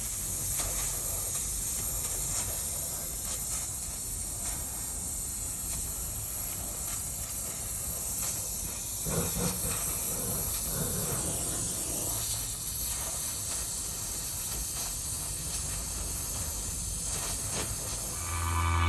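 Steady high-pitched hiss of gas escaping from a leak in a Trane Voyager rooftop unit's condenser coil.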